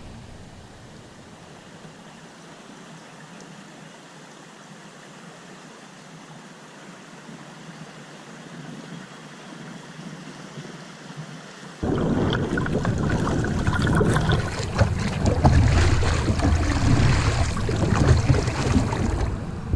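River water and kayak noise on a flooded river. A faint steady rush of water at first, then about twelve seconds in it jumps suddenly to a loud low rumble with repeated splashing.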